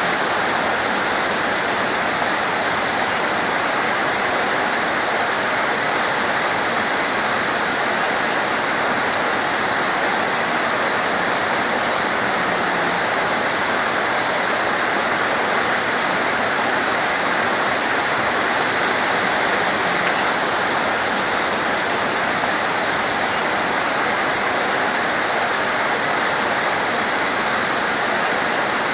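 Heavy torrential rain falling in a steady, dense hiss, with one brief sharp click about nine seconds in.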